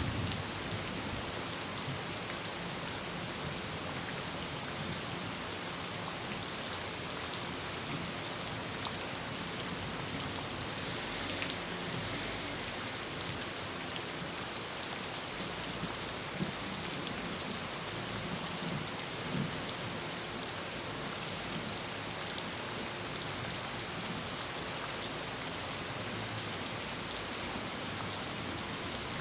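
Heavy rain falling steadily on a tin roof, a dense even patter with scattered sharper drop hits.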